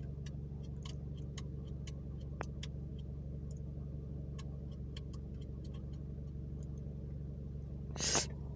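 Car engine idling steadily, heard from inside the cabin as a low even hum, with faint scattered clicks and a short hiss near the end.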